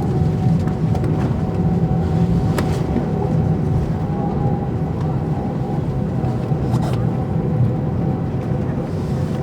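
Airbus A319 jet engines and airframe running at high power, heard inside the passenger cabin as a loud, steady low rumble with a steady hum above it and a few brief rattles, as on the takeoff.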